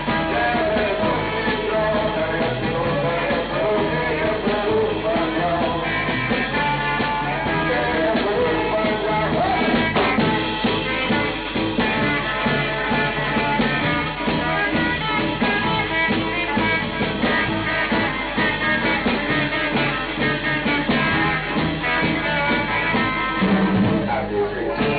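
A 1960s beat group playing live: electric guitars, bass guitar and drums with a singer, at a steady rock-and-roll beat.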